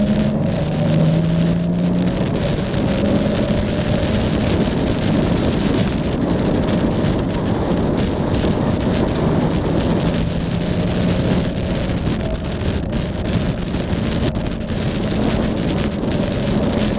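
Yamaha Tracer motorcycle engine running at road speed, its note shifting in pitch a few times, under heavy wind rush on the bike-mounted camera's microphone.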